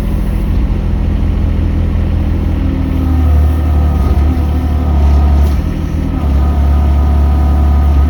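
Mini excavator engine running steadily. It grows louder for a stretch about three seconds in and again about six seconds in, with a higher whine over it.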